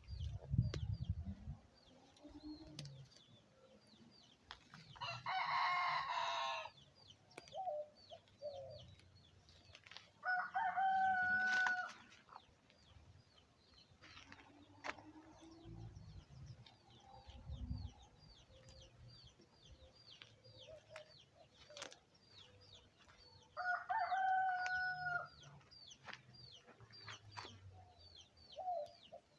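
A rooster crowing three times: about five seconds in, again around ten seconds, and near the end, each call held for a second or two. Faint, rapid high chirping runs underneath.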